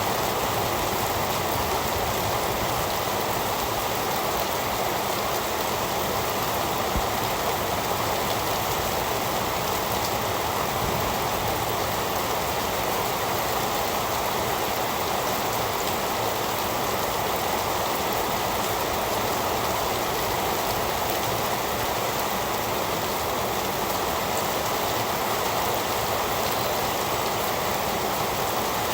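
Heavy rain falling in a steady, even hiss, with no breaks and no thunder.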